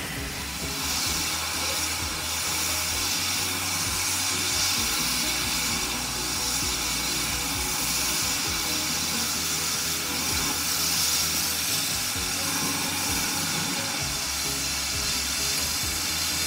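Steady hiss of escaping steam from a steam locomotive, a GWR 57xx pannier tank, swelling and easing every few seconds.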